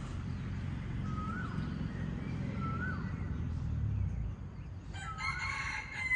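Roosters crowing twice, then again near the end, over a steady low rumble.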